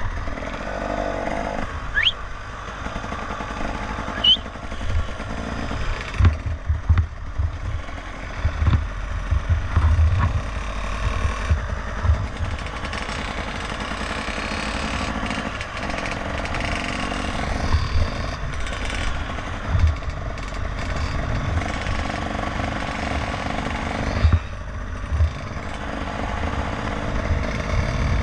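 Motorcycle riding along, its engine running as a steady rumble with irregular low thuds throughout.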